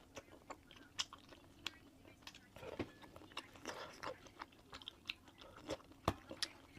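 Close-miked chewing and biting of braised meat: irregular wet mouth smacks and soft crunches, with the sharpest click about six seconds in.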